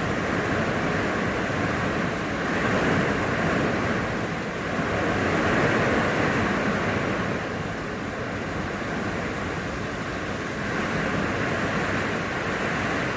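Strong hurricane wind blowing in gusts, a steady rush that swells and eases every few seconds and is loudest about six seconds in.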